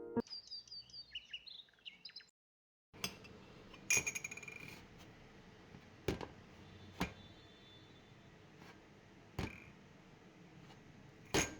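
Birds chirping briefly. After a short gap comes quiet ambient sound with about half a dozen sharp clinks and knocks, spaced a second or more apart.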